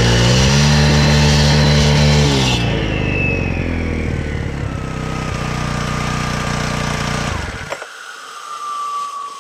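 Makita EK7650H four-stroke concrete saw running at high revs, dropping to a lower steady speed about two and a half seconds in, then its engine cutting off suddenly near eight seconds in. A thin whine falls steadily in pitch as the blade spins down, carrying on after the engine has stopped.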